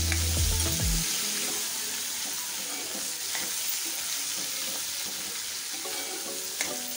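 Cut okra sizzling as it fries in hot oil in a kadai, stirred with a steel spatula that scrapes and clicks against the pan a few times.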